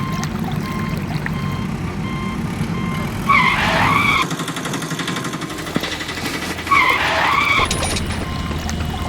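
Vehicle engine sound effect running steadily, with two short wavering squeals, about a third of the way in and again about three quarters of the way in.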